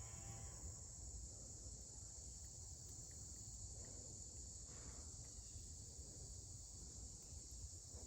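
Faint, steady, high-pitched insect chorus of crickets trilling.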